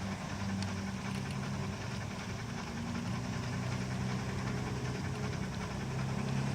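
G scale three-truck Shay model locomotive running on its track: a steady mechanical hum with a few held low tones that shift slightly in pitch.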